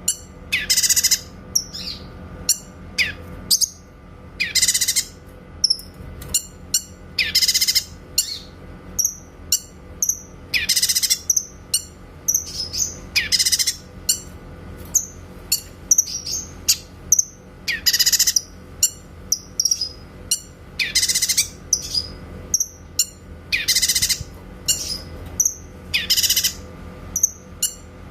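Cucak kinoy singing: loud, shrill, sharp 'tembakan' (shot) phrases about every three seconds, with quick short chirps in between.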